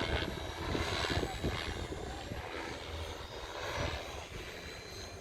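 Hirobo Lepton EX 500-class radio-controlled helicopter in flight: a steady high whine from its rotor and drive over a low, uneven rumble.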